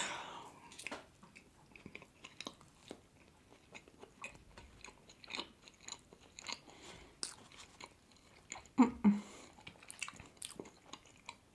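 Close-miked eating: a bite into a marshmallow-covered doughnut, then soft chewing with many small wet mouth clicks. A brief louder mouth sound comes about nine seconds in.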